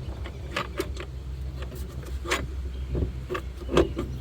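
Scattered sharp clicks and knocks, about seven of them, the loudest about two and a half and four seconds in, as engine-bay parts are handled and worked into place during reassembly. A steady low hum runs underneath.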